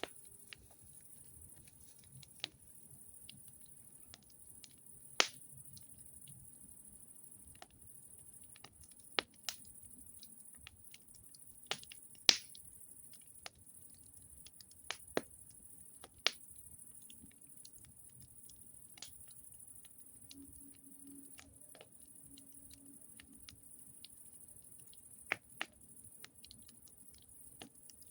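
Campfire crackling: sharp, irregular pops and snaps of burning wood, a second or a few seconds apart.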